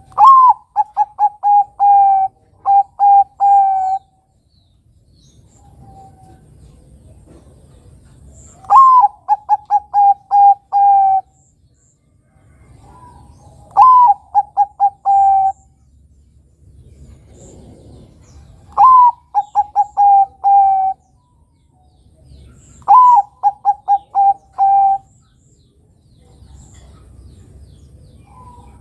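Zebra dove (Bangkok-type perkutut) cooing: five song phrases several seconds apart. Each phrase is an opening note that swoops up, then a quick run of short, even coos.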